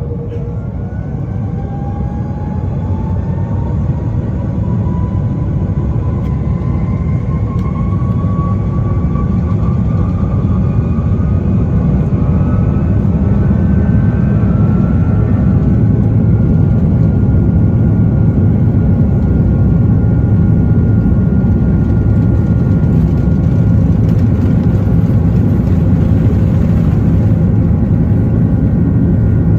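Airbus A330-343's Rolls-Royce Trent 700 turbofans heard from inside the cabin, spooling up to takeoff thrust: a whine rises in pitch and the sound grows louder over the first ten seconds or so. It then settles into a steady heavy rumble with a constant whine as the airliner accelerates down the runway.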